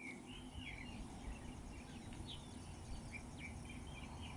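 Small birds chirping and twittering in short, quick high notes, over a low steady rumble.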